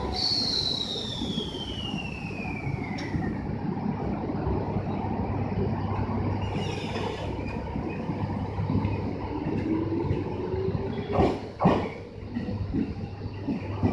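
JR East local train pulling out and gathering speed, with a steady running rumble. A high whine falls in pitch over the first few seconds, and a lower whine rises as it accelerates. Two sharp clacks about half a second apart come near the end, typical of the wheels passing over a rail joint.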